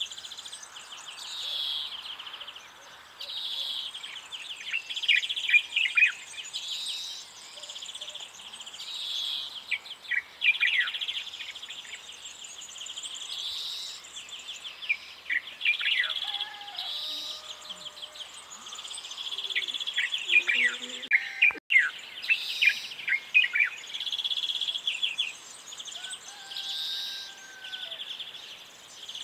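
Birds chirping and singing: quick falling chirps and short high trills, repeating every couple of seconds.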